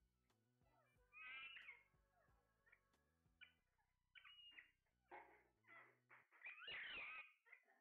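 Parrots calling: a string of short, pitched squawks and whistles, some bending up and down in pitch. There is one burst after about a second, then a quicker run of calls later, the loudest near the end.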